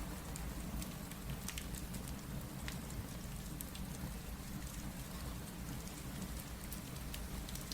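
Steady rain with a low rumble underneath, mixed with scattered sharp crackles from a wood fire.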